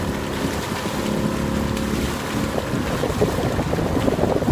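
Steady wind rumbling on the microphone and water noise around a kayak on open water, with a faint steady hum underneath.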